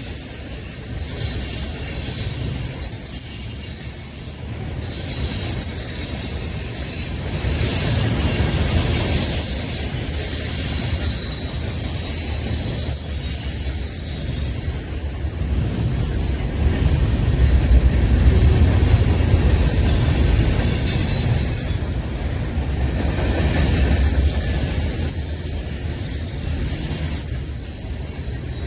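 A train rolling past, its cars making a steady low rumble that swells about two-thirds of the way through. Thin, high wheel squeals come and go over it.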